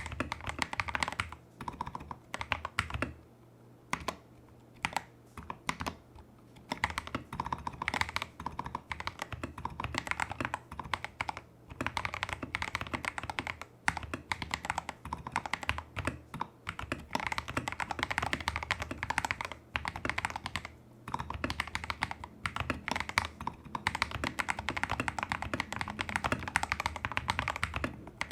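Typing on a Tester68 mechanical keyboard fitted with lubed clone Holy Panda tactile switches, XDA-profile keycaps, a taped PCB and modded stabilisers: a quick, steady run of key clacks that thins to scattered presses for a few seconds near the start, then picks up again.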